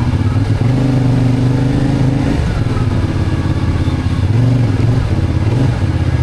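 Motorcycle engine running as the bike is ridden over a rough stretch of road. Its pitch holds, drops about two and a half seconds in, then climbs again with the throttle.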